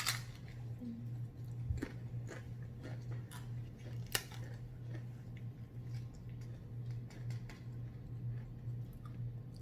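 Eating sounds picked up close to the microphone: chewing, with scattered short crunches and clicks, over a steady low hum.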